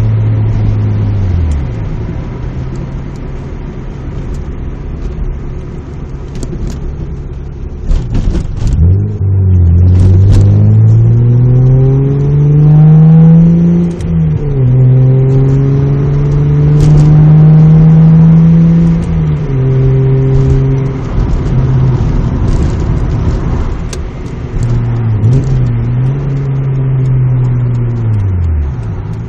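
Mazda MX-3 GS's 1.8-litre V6 running through an aftermarket 2¼-inch exhaust with a test pipe in place of the catalytic converter and a Magnaflow Street Series muffler, heard from inside the cabin while driving. It settles back early on, pulls with rising revs from about a third of the way in, drops into a steady cruise, then eases off and slows near the end.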